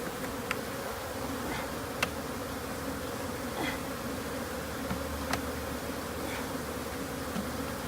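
A mass of honeybees buzzing steadily around a hive being captured. It is a disturbed colony whose comb has just been cut out. A few sharp clicks are heard over the hum.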